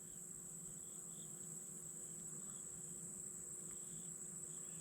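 Field insects droning steadily at a high pitch, with a few faint short chirps now and then.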